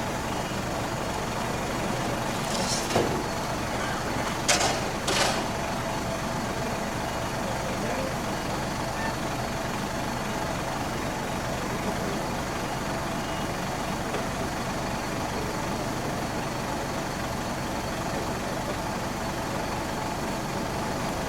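Truck engine running steadily, with three short hisses of air about three to five seconds in.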